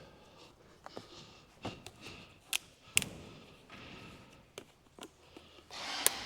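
Scattered light taps, clicks and knocks of things being handled, about a dozen separate strikes, the sharpest about three seconds in and just before the end, over a faint background.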